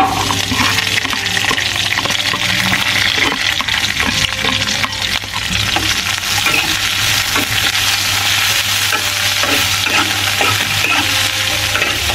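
Sliced shallots, garlic, red chillies and lemongrass sizzling steadily in hot oil in a small frying pan just after being tipped in, while a metal spatula stirs them, clicking and scraping against the pan.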